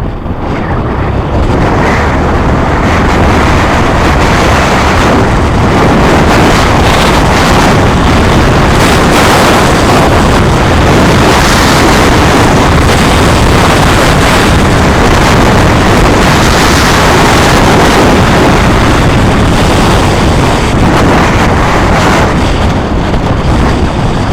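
Loud, steady wind rush buffeting the microphone, with a low rumble underneath, as from moving along at speed.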